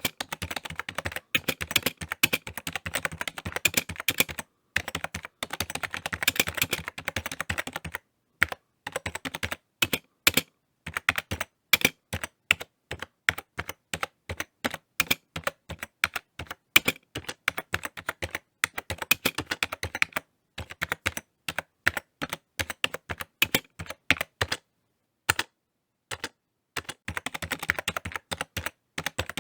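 Typing on a computer keyboard: bursts of quick key clicks, with a few short pauses between runs and a longer pause a little before the end.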